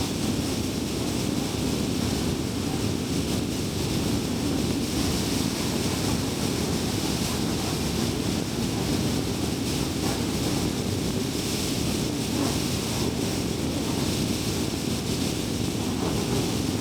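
A car driving at a steady pace: continuous road and tyre noise with a low hum and a high hiss over it.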